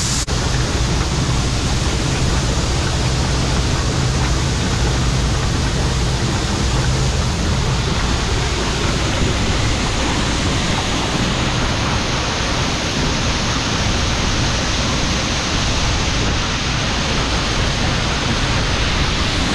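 John Deere 4400 combine running steadily while its unloading auger empties soybeans from the grain tank into a truck: an even rushing hiss over a constant low engine hum.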